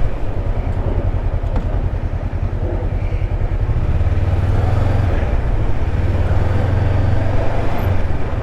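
Motorcycle engine running at a steady speed, a low pulsing rumble.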